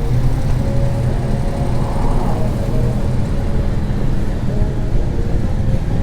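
An engine running steadily with a low, even hum, amid city street noise.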